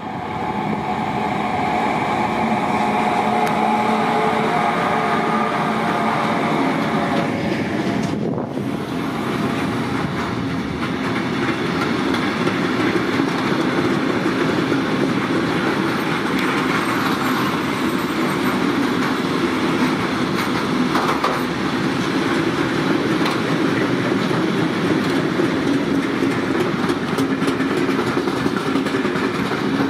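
A DB Class 185 electric locomotive draws a freight train of curtain-sided wagons past, with a steady rolling noise of wheels on rails. A humming tone from the locomotive is heard for the first several seconds, then gives way to the even rumble of the passing wagons.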